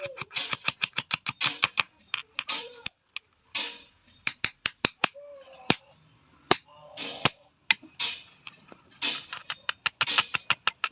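Light hammer taps on steel: a quick run of about eight taps a second, then irregular single strikes, some ringing briefly.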